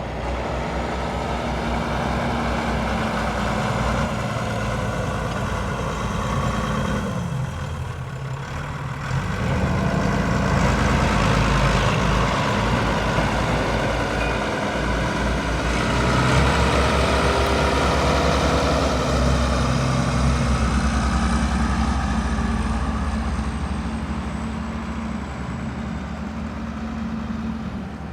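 Tractor engine running steadily. It grows louder about ten seconds in and fades again near the end, as with a tractor working close by and then moving away.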